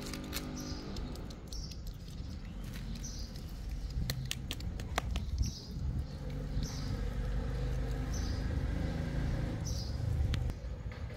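A small bird chirping over and over, short high calls about once a second, over a low steady rumble. A few sharp clicks come about four to five seconds in.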